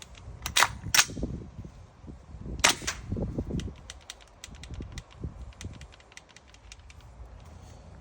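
Tokyo Marui MWS gas blowback airsoft rifle firing three sharp shots in the first three seconds, followed by a run of fainter sharp clicks. The rifle is misfiring, which the owner suspects may come from the trigger box.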